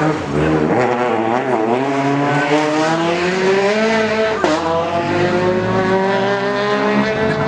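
Rally car engine at full throttle. Its pitch wavers at first, then climbs steadily, drops sharply at an upshift about four and a half seconds in, and climbs again.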